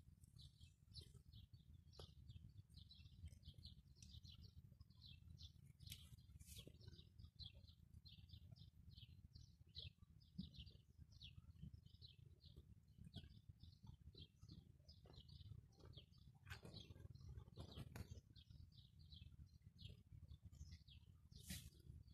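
Small birds chirping faintly, a run of short high chirps several times a second, over a low steady rumble.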